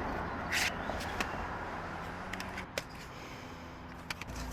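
A few light clicks and short rustles of plastic CD cases being handled and sorted through, over a faint steady background hum.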